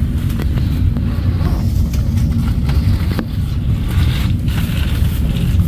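Moving train, a steady low rumble with a few faint clicks.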